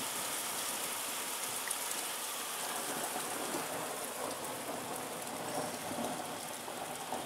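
Heavy thunderstorm rain falling steadily on a paved lane and hedges.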